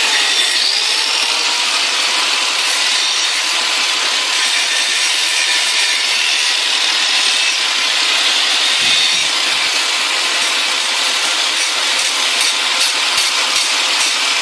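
Handheld grinder running under load, grinding down the high points and dings on the steel vise: a steady, loud grinding hiss.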